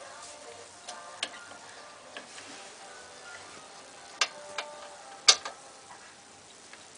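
Hand tools clinking and knocking during work on a car's brakes: several sharp separate clicks and taps, the loudest two about four and five seconds in.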